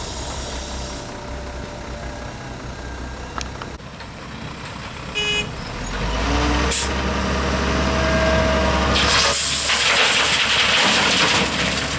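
Heavy construction machinery running with a steady low engine drone. A brief pitched tone comes about five seconds in, and a loud hiss follows about nine seconds in and lasts a couple of seconds.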